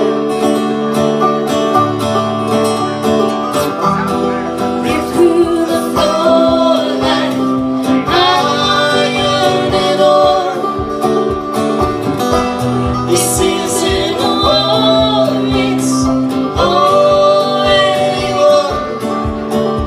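Acoustic folk song in an instrumental break: strummed acoustic guitar chords with a sliding melody line over them, swelling twice.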